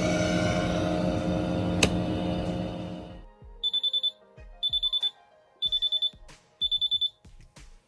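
Miele Navitronic W3985 WPS washing machine's motor and drum running, then fading away over the first three seconds, with one sharp click just before the end of that stretch. About three and a half seconds in, the machine's buzzer sounds four groups of rapid high beeps, about one group a second: the end-of-programme signal.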